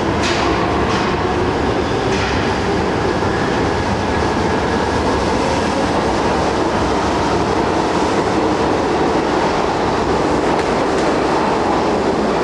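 Red Marunouchi Line subway train running on the rails: a steady, loud rumble with a few clicks of wheels over rail joints in the first couple of seconds.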